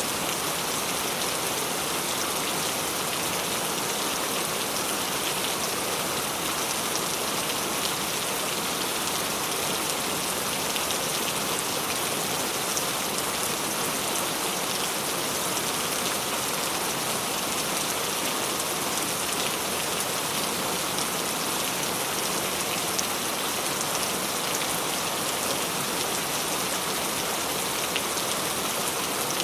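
Tropical rain falling steadily: a dense, even hiss of drops with fine ticks of single drops striking surfaces.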